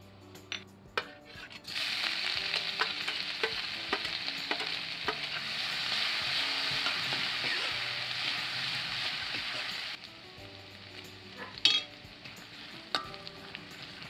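Ginger-garlic paste frying in hot oil in a stainless steel kadhai. A loud sizzle starts about two seconds in as the wet paste hits the oil, holds steady, then drops suddenly to a softer sizzle about ten seconds in. A steel ladle stirs and clinks against the pan, with the sharpest clink near the end.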